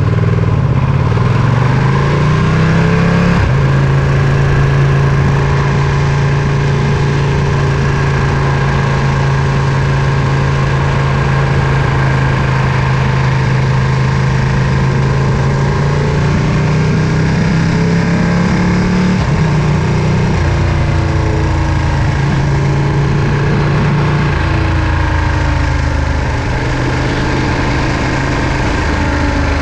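Ducati Panigale V2's 955 cc L-twin engine and exhaust under way. The engine note climbs for the first few seconds, drops abruptly at a shift, then holds steady at cruise. Later it rises briefly and drops twice more, over a steady rush of noise.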